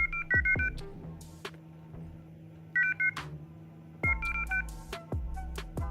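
Keypad tones from a touchscreen mobile phone: short two-note beeps as digits are tapped in quick groups, a few in a row near the start, again about three seconds in and around four seconds in, with sharp clicks between them.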